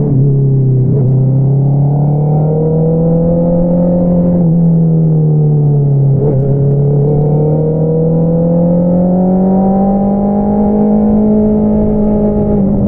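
Honda CBR650R inline-four running through an Akrapovič single-outlet exhaust while riding at moderate revs. The engine note rises, dips twice around four and six seconds in, then climbs slowly again.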